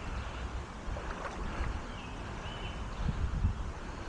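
Wind buffeting the microphone over a steady water rush, swelling in a gust about three seconds in. A couple of faint, short, high chirps come a little before that.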